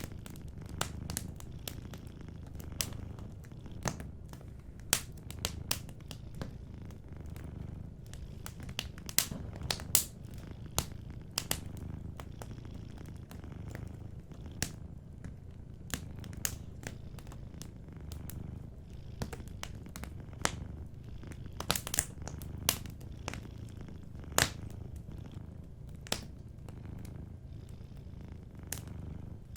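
A cat purring steadily in a low, even hum, under a wood fire crackling with irregular sharp pops, a few of them much louder than the rest.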